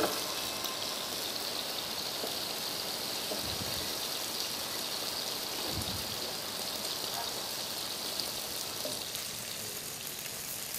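Food frying in a pan on a gas hob: a steady sizzling hiss, with a sharp click at the very start and a couple of faint knocks.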